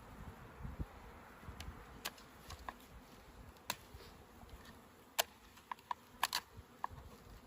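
Honeybees buzzing around an open package of bees, with a handful of sharp clicks.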